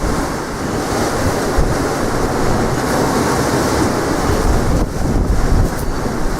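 Strong wind buffeting the microphone with a low rumble, over the steady rush of waves breaking on the shore.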